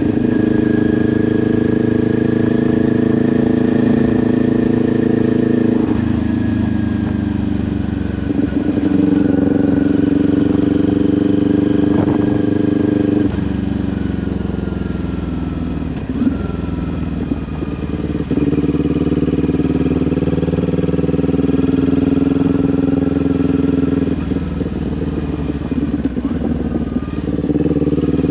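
Kawasaki Ninja 400 parallel-twin engine running through an SC-Project aftermarket exhaust while riding. The engine note changes in steps several times, with slow falls in pitch in between as the revs drop.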